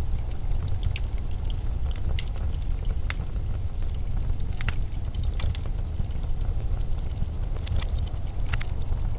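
Winter storm wind: a steady deep rumble and rush, with irregular sharp crackles and ticks scattered through it.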